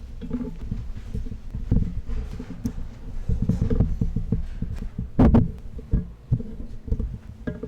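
Irregular low thumps and knocks, with a sharper bump about a second in and another a little past the middle, over a faint steady hum.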